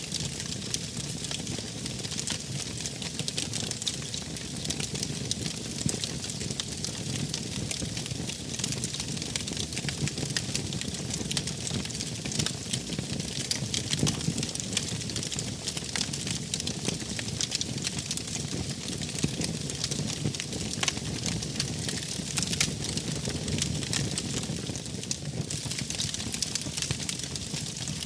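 Wood fire burning: a steady low rush of flames with frequent small pops and crackles scattered throughout.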